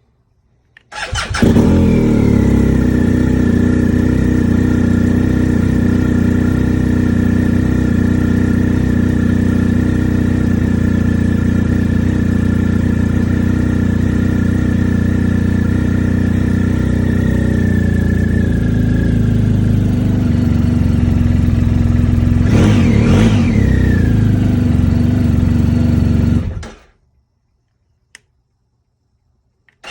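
A BMW R1250 GS Adventure's boxer twin is cold-started: it cranks briefly and fires about a second in, then idles steadily. The owner is checking the start hesitation that persists even with a new 220 CCA battery. Near the end the engine is blipped once, rising and falling in pitch, and it then cuts off.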